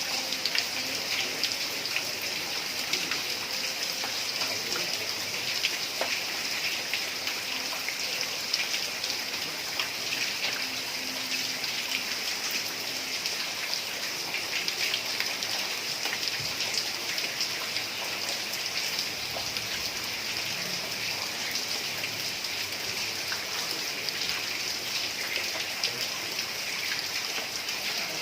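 Heavy rain pattering steadily on a tiled roof, with many individual drop ticks over a constant hiss.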